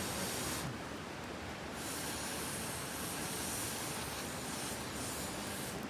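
Green peppers topped with rice sizzling as they cook over the heat, a steady hiss that grows brighter about two seconds in.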